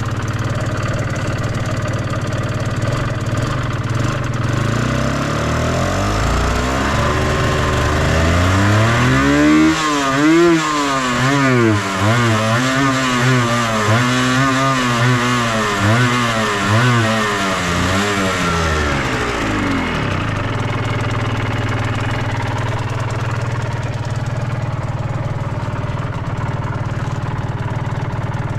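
Suzuki RGV250 Gamma's two-stroke V-twin engine idling, then revved up from about five seconds in and blipped repeatedly, roughly once a second, before dropping back to a steady idle about twenty seconds in. It is running after long storage, which the seller describes as free of abnormal noise.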